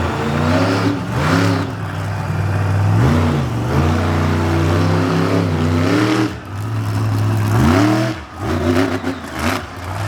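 Monster truck engine revving, its pitch rising and falling several times over a steady low engine drone.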